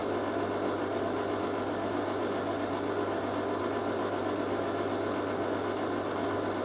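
Hoover A3060 Electronic 1100 washing machine running steadily at the end of its drain after the main wash, a constant machine noise with a low mains hum.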